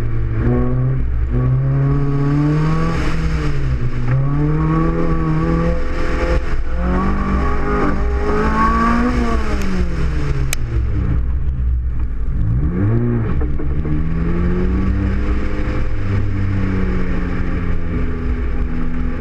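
Lotus sports car's engine on an autocross run, heard from inside the open cockpit: revs climb and fall again and again as the car accelerates and slows between cones, dropping low and rising again about two thirds of the way through. A steady low rumble runs beneath it.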